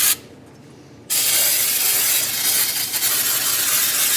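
A brief scrubbing stroke at the start, then about a second in a steady spray hiss begins and keeps going, as in cleaning engine parts.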